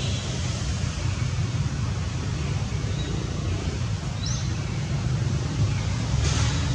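Steady low outdoor rumble, with a few faint high chirps and a short hiss about six seconds in.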